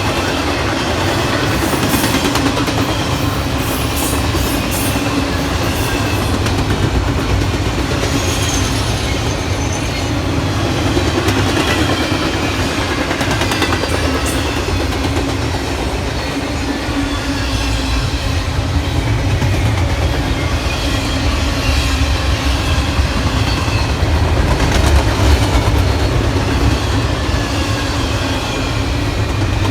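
Train rolling past close by: a steady rumble of steel wheels on rail with clickety-clack over the rail joints and faint wheel squeal.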